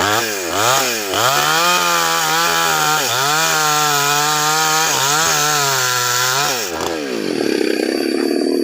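Chainsaw revved a few times, then held at high revs through a cut in sengon wood, its pitch sagging slightly now and then under load. It drops back to idle about seven seconds in as the cut is finished.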